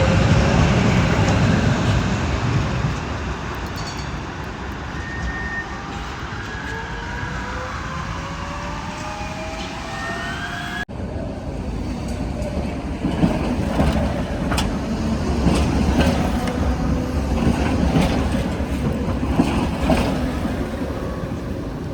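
Tatra tram running past: a loud rumble at first, then rising traction-motor whines as a tram pulls away. After a sudden cut about halfway through, tram rumble returns with a series of sharp knocks and clicks from the wheels and rails.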